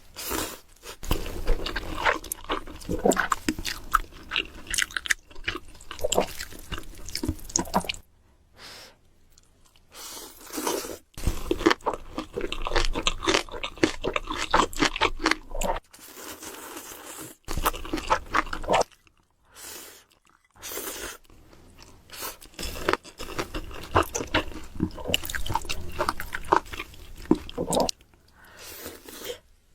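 Close-miked eating sounds: a person crunching and chewing food in several bouts of crisp, crackly bites, with short pauses between mouthfuls.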